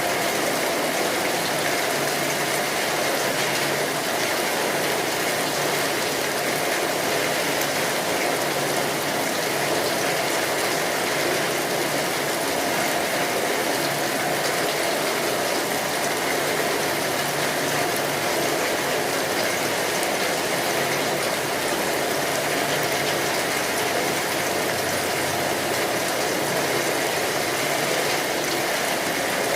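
Steady rainfall: an even, unbroken hiss of many raindrops.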